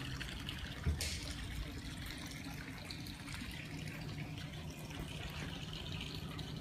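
Steady splashing trickle of cooling water pumped out of a boat's hull-side discharge by the onboard air conditioner while it runs, with a faint low hum beneath. A single short knock about a second in.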